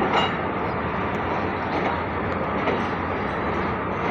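Passenger train coaches rolling slowly along a station platform: a steady rumble of wheels on rail with a few faint clicks.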